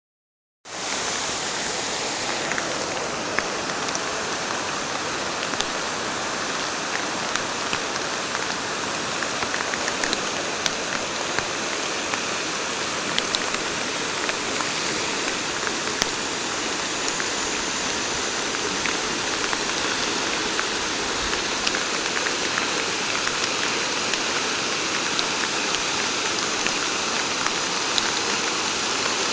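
Steady rushing of a flood-swollen river, with scattered faint ticks over it. The sound starts abruptly just under a second in.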